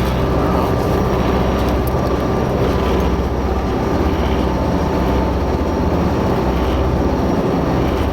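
Hydrofoil ferry under way, heard from aboard: the engines running with a steady low hum under an even rushing noise.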